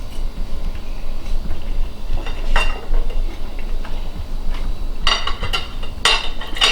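Cutlery clinking against a plate: a sharp clink about two and a half seconds in, then a quick run of clinks near the end, over a steady low hum.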